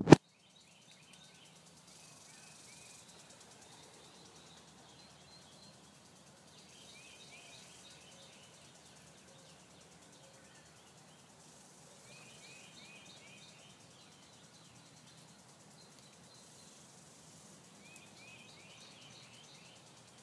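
A small bird singing a short series of high chirping notes, repeated about every five seconds, over faint outdoor background noise. A brief loud knock of the phone being handled comes at the very start.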